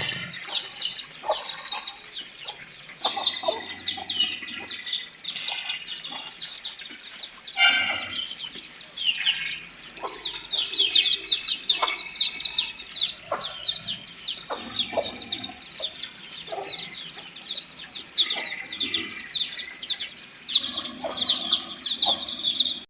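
A flock of birds calling: dense, continuous high cheeping, with shorter, lower calls mixed in.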